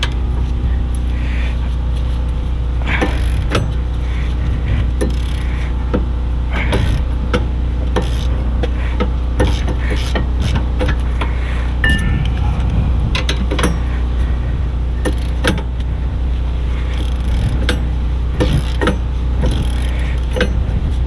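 Irregular metallic clicks and knocks of hand tools working a rear brake caliper bracket and its bolts, over a constant low hum.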